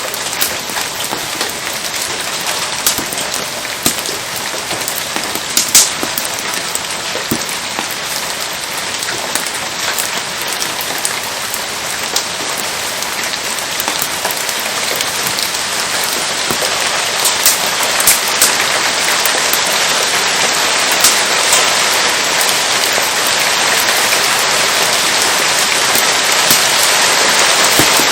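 Steady rain falling, gradually getting louder, with a few sharp pops scattered through it.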